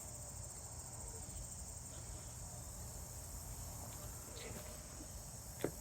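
Steady chorus of crickets and other insects, a continuous high-pitched trill, with a faint low rumble underneath and one brief knock near the end.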